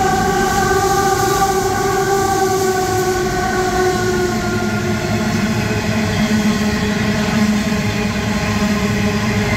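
Diesel-electric locomotives of a coal train passing, a low engine rumble under a whine of several tones that slowly falls in pitch.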